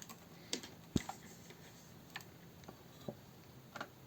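Scattered small clicks and taps of hand tools and a component being handled on a workbench, about five separate ones, the sharpest about a second in.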